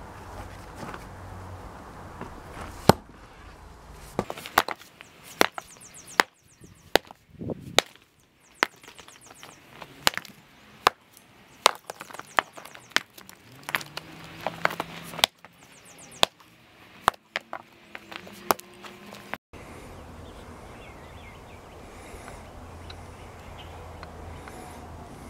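Irregular sharp knocks and cracks of concrete rubble being broken up and handled, roughly one or two strikes a second, with abrupt cuts between clips. The strikes thin out in the last few seconds, leaving a steady low outdoor hum.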